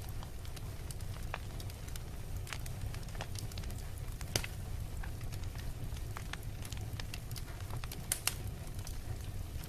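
Wood bonfire crackling, with irregular sharp pops: a louder one a little under halfway through and a quick pair near the end. A steady low rumble runs underneath.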